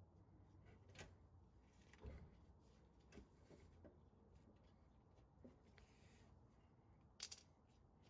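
Near silence with a few faint clicks and knocks from hand tools during work on a car's rear exhaust muffler hangers, the loudest a quick double tap near the end.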